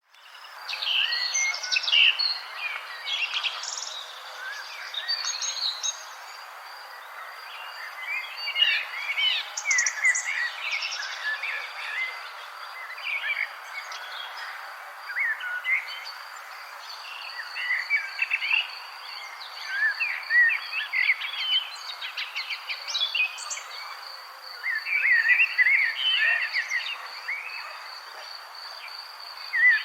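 Several wild birds chirping and singing in bursts every few seconds, over a steady, high, pulsing insect trill.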